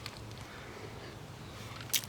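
Quiet, steady background hiss of room tone, with one brief click right at the end.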